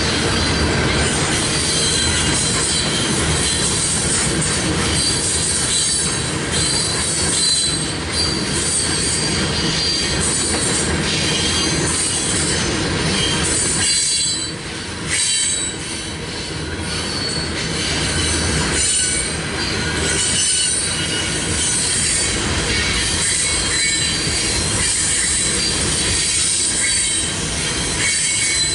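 Freight train cars rolling past close by: a steady rumble and clatter of wheels on rail, with high-pitched wheel squeal coming and going. The sound dips briefly about 14 seconds in.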